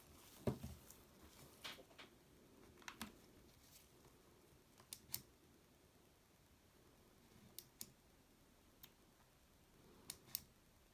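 Scattered small clicks and taps of a Nintendo Switch console and its parts being handled during a repair, some in quick pairs. The loudest, about half a second in, has a dull knock to it.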